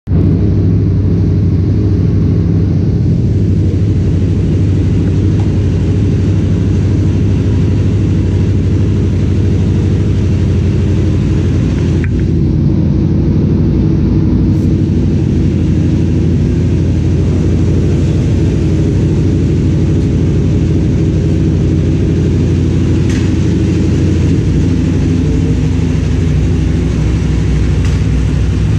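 Motorcycle engine idling steadily, a constant low running sound with no revving.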